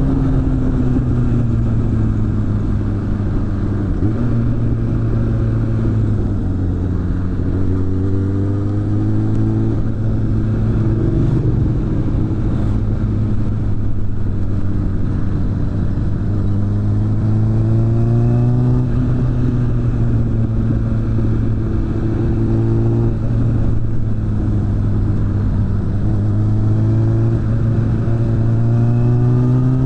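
Suzuki GSF600 Bandit's inline-four engine through a BOS aftermarket exhaust, under way: the engine note sinks as the bike slows, then climbs under acceleration several times, each climb cut by a sudden drop in pitch at an upshift.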